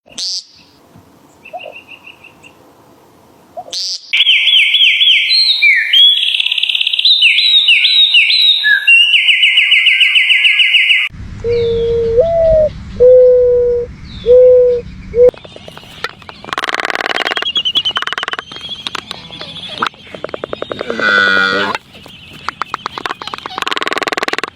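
A series of different birds' calls: loud, high whistled notes repeated rapidly with quick pitch glides, then four low hooting notes, then a run of strange clicking and buzzing sounds.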